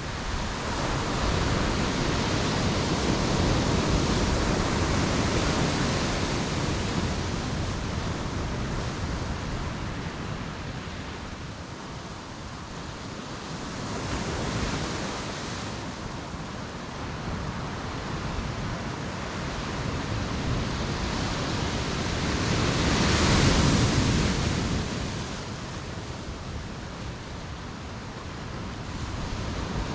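Ocean surf breaking on a beach, washing in slow surges that swell and fade every several seconds. The biggest wave breaks about three-quarters of the way through.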